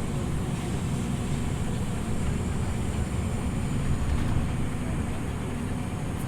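Inside a Scania OmniLink CL94UB city bus: steady low rumble of the engine and running gear, with a faint high whine.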